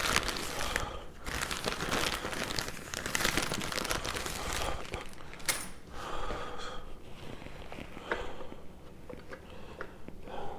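Crinkling and rustling of crinkly material being handled, with scattered small clicks and taps.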